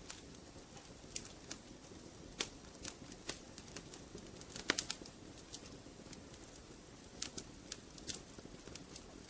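Fire in a fireplace crackling: irregular sharp pops and snaps over a soft steady rumble, with one louder snap about halfway through.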